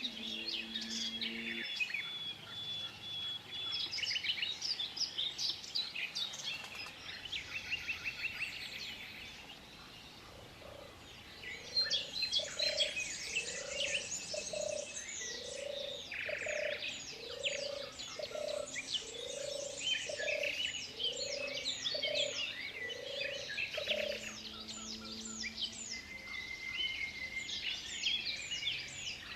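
Several birds singing and chirping together. About a third of the way in, a run of about ten evenly spaced low calls starts, a little over one a second, and stops near the three-quarter mark.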